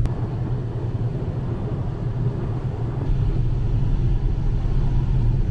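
Steady low rumble aboard a moving ferry.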